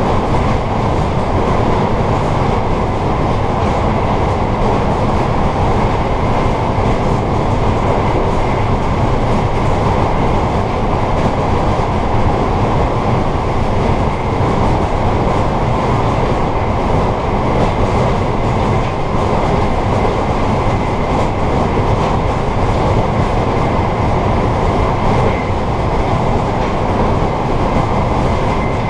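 Amtrak passenger train running on the rails, heard from inside its rear car: a steady, loud rumble of wheels on track and car body, with a faint steady high whine above it.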